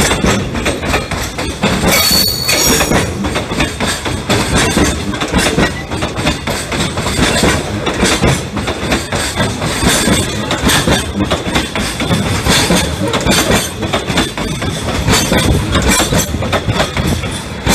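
Freight train of container flat wagons rolling past close by, its steel wheels clattering continuously over the rail joints. A brief high-pitched squeal comes about two seconds in.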